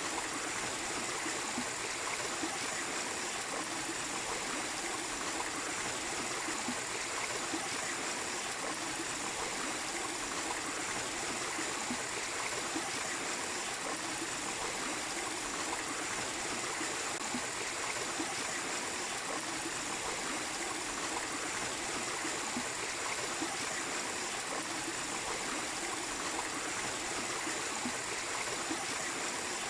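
Small waterfall and stream splashing and trickling over rocks, a steady rushing hiss of water.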